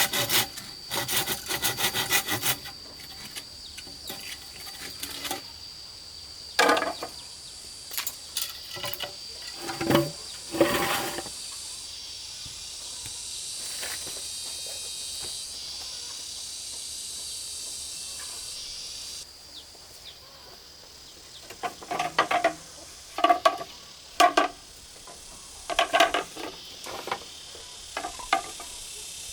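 Hand saw cutting bamboo in quick strokes, stopping about two and a half seconds in, followed by scattered knocks and clatter of wood being handled. A steady high insect buzz runs behind it and fades out about two-thirds of the way through.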